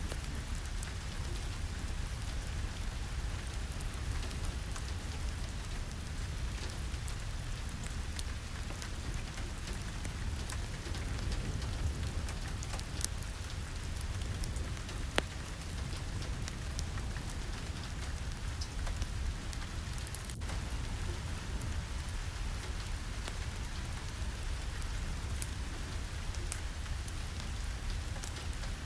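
Steady rain falling, an even hiss over a low rumble, dotted with scattered sharp drip and tap clicks, one stronger pop about fifteen seconds in.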